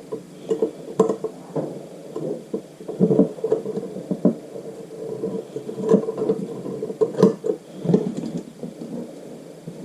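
Irregular knocks and clicks of metal tools and valve parts being handled on a motorcycle cylinder head while the valve springs are fitted with a valve spring compressor.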